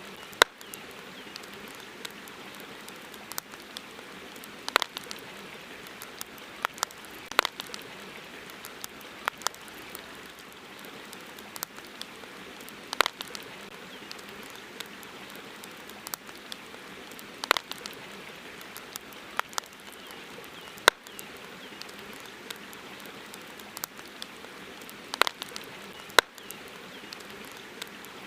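Wood campfire crackling: irregular sharp pops and snaps, a louder one every few seconds, over a steady hiss.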